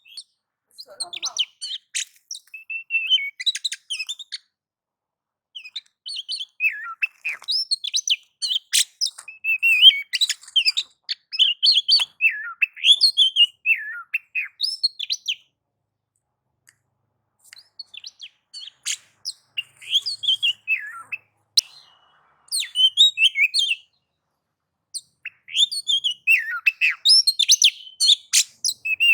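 Oriental magpie-robin (kacer) singing in bouts of quick, varied whistles and sharp chattering notes, broken by short pauses between phrases.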